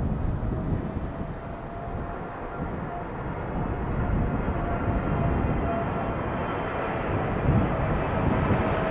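Jet airliner engines: a steady rumble with a thin whine above it, gradually growing louder.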